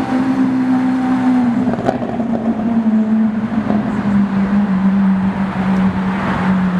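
A supercar's engine running at low, steady revs, its note sinking slowly and evenly.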